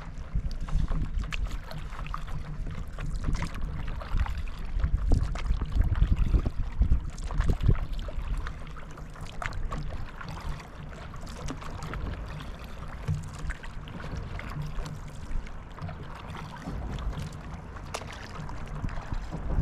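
Water splashing and lapping around a paddle board, with gusty wind buffeting the microphone.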